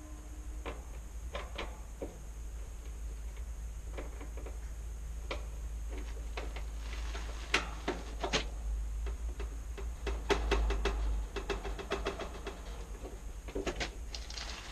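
Scattered clicks and knocks, some with a short ringing note, over a steady low rumble.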